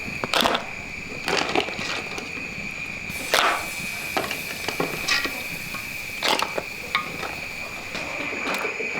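Crickets or similar insects trilling as one steady high tone, with irregular sharp knocks and cracks of something being handled, the loudest about three and a half seconds in.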